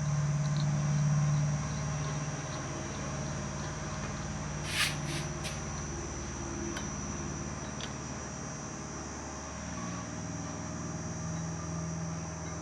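A steady low hum, like a small motor running, with one sharp click about five seconds in and a few fainter ticks after it.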